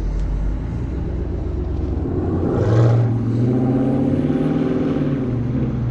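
Dodge Charger R/T's V8 engine and exhaust pulling away under acceleration. The engine note climbs and is loudest about three seconds in, then settles into a steady drone as the car moves off.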